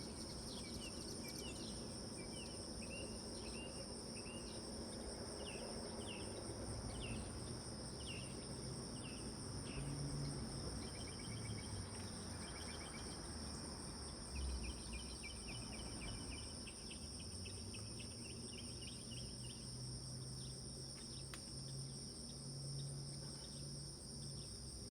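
Insects trilling steadily in two high, pulsing pitches, with short repeated chirps over the first half and a rapid trill in the middle. A low hum runs underneath.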